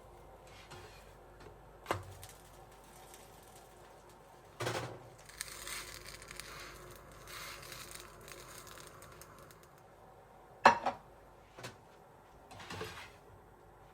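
Household handling sounds: a few sharp knocks and clicks, the loudest about ten and a half seconds in, with a stretch of soft rustling between them.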